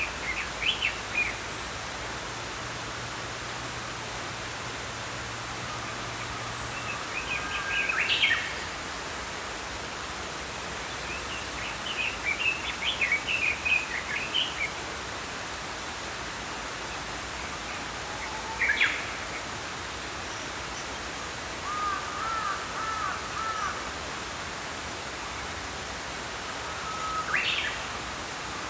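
Small songbirds chirping and singing in short phrases every few seconds over the steady rush of flowing stream water.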